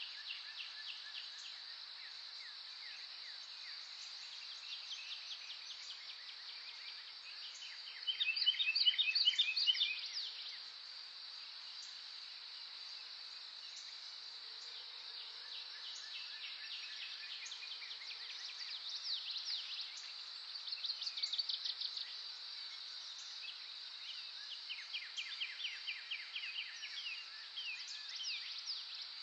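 Songbirds singing in bursts of rapid trilled phrases over a steady, high insect drone. The loudest phrase comes about eight seconds in, and further phrases follow later.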